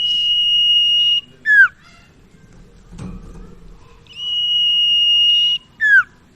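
Common iora (sirtu/cipoh) singing: a long, steady, high whistle held for over a second, then a short sharply falling note, given twice.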